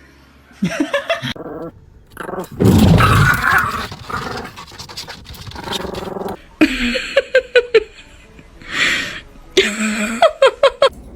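A dog vocalizing in several short bursts of quick repeated calls, about four or five a second, with a louder, rougher stretch a few seconds in.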